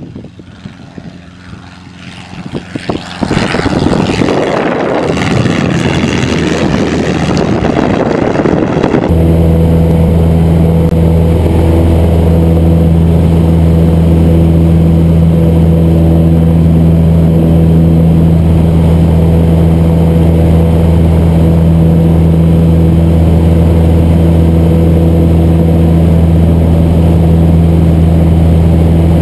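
Cessna 150's four-cylinder Continental O-200 engine and propeller heard from inside the cabin. The sound swells sharply about three seconds in, then about a third of the way through it changes abruptly to a steady, even drone at constant power.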